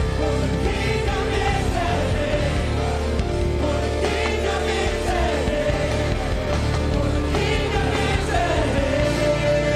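Live worship music: held keyboard-like chords over a steady bass, with voices singing.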